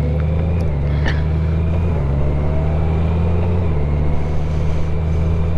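Motorcycle engine running steadily while riding, with road and wind noise. Its low note shifts slightly a few times, and there is a faint click about a second in.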